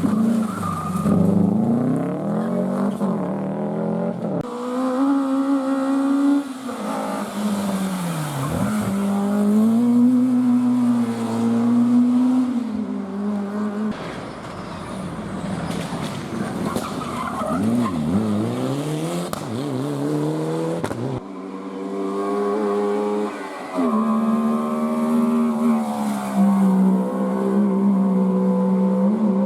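Rally cars at racing speed, their engines revving hard with the pitch climbing and dropping again and again through gear changes and throttle lifts. The sound changes abruptly a few times as a different car takes over.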